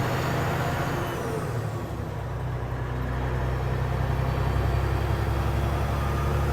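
Semi truck's diesel engine idling steadily, a low even hum that dips slightly about two seconds in and then comes back up.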